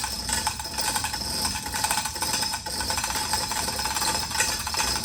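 Machinery running steadily with a constant whine and a fine rattling texture.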